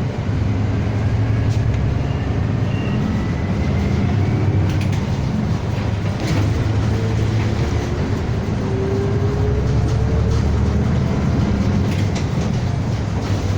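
City bus cabin noise while riding: a steady low engine and road rumble, with a faint whine that rises slowly in pitch twice as the bus gathers speed.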